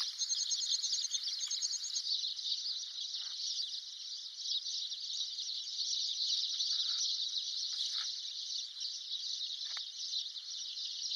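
A steady high-pitched chirring of insects, with a few faint short bird chirps scattered through it.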